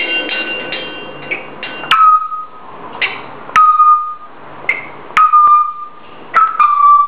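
African grey parrot screeching loudly and repeatedly, about five piercing calls, each starting with a sharp crack and held as a steady whistle for about half a second.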